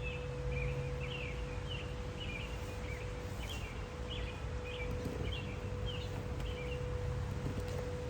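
Garden birds chirping in quick runs of short repeated notes, stopping about six and a half seconds in. Under them a steady held wind-chime tone rings throughout over a low outdoor rumble.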